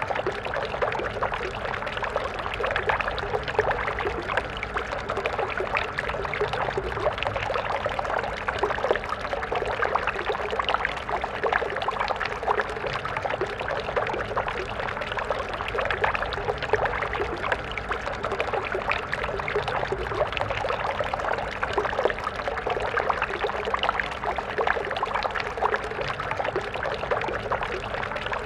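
A stream of water flowing and splashing steadily, a dense, even rush of small splashes without pause.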